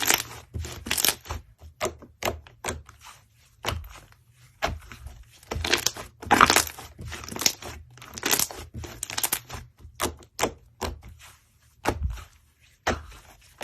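Slime being squished and pressed by hand, giving an irregular run of crackling, crunchy pops with short pauses between; the loudest burst comes about halfway through.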